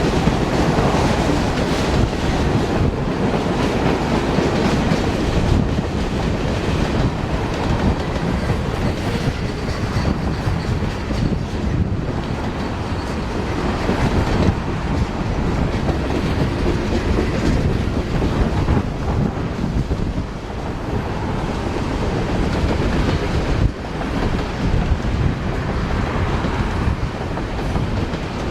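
Freight train cars rolling past, a steady rumble with the clickety-clack of wheels over the rail joints.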